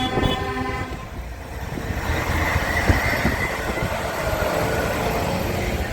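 Tractor engines running and rumbling past, with a horn note sounding at the very start and cutting off.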